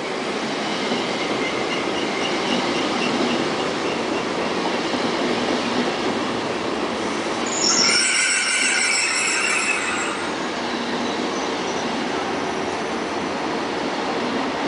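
ICE high-speed train rolling past along a station platform, a steady rumble of wheels on rail. About eight seconds in a loud, high metallic squeal from the wheels sets in for about two seconds.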